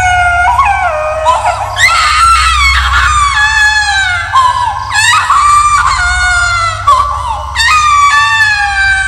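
Horror sound effect of shrill, high-pitched ghostly screams, repeated several times, each one sliding down in pitch, over a steady low drone.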